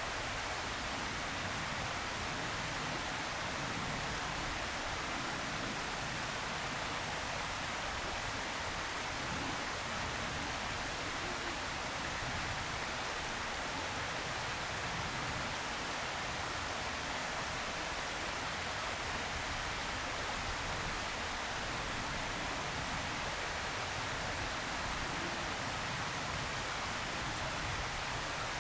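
Steady, even hiss with no distinct calls or knocks.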